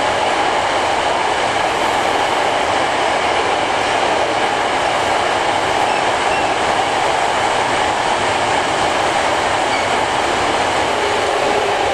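Running noise heard from inside a Hankyu 8300 series electric train car as it travels through the underground section in Kyoto: a steady rumble of wheels on rail and car body. A faint steady tone joins near the end.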